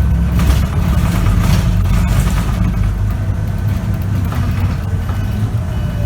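Scania K94UB bus's diesel engine running with a steady low drone, heard from inside the bus.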